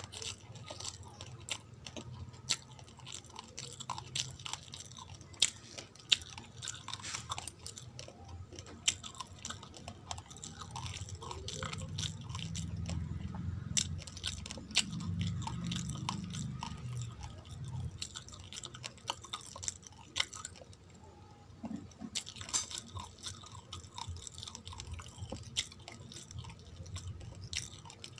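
Close-miked chewing and crunching of uncooked rice grains, with many sharp cracks throughout. A low rumble swells for a few seconds around the middle.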